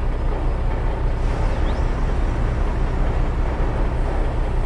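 Heavy construction machine engine running, a steady low rumble.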